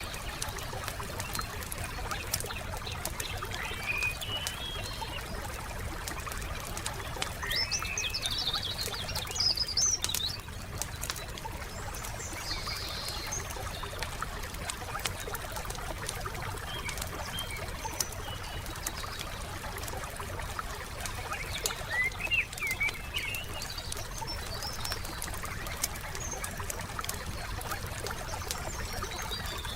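Wood fire crackling with frequent sharp pops over a steady low rumble, while small songbirds chirp in short phrases several times; the loudest phrases come about nine seconds in and again a little past twenty seconds.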